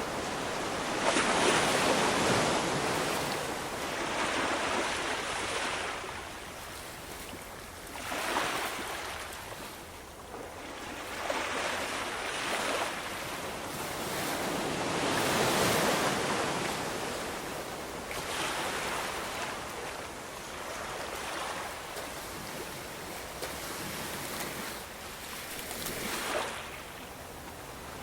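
Ocean surf: waves breaking and washing in one after another, the rush swelling and falling away about six times, loudest about two seconds in and again around the middle.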